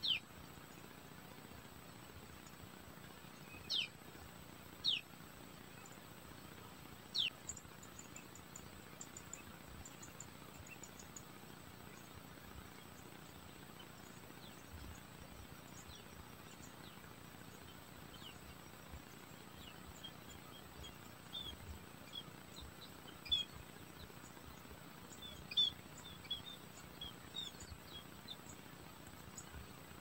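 Faint steady hiss with scattered short, high bird chirps: four calls falling in pitch in the first seven seconds, then a run of quick chirps in the last ten seconds.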